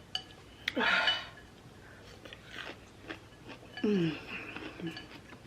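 Close-up mouth sounds of someone eating spicy noodles: chewing and small wet clicks and smacks, with a couple of short falling vocal sighs, about a second in and again near four seconds, from the burning heat.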